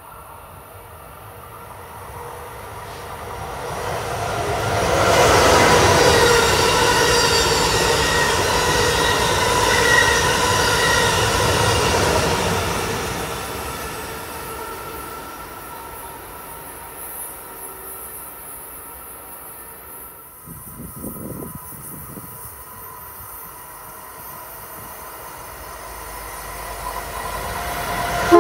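Amtrak electric trains at speed on the Northeast Corridor: rail and wheel noise with steady whining tones swells up, stays loud for several seconds, then fades. An Acela Express trainset then approaches, growing louder toward the end.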